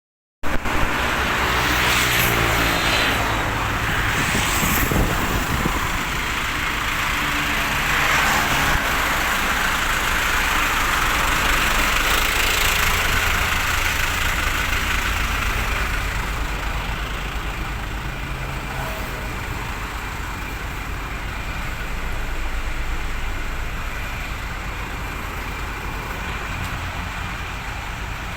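Hino 300 Series light truck's diesel engine running steadily, not revving, under a constant hiss, with a few short knocks early on.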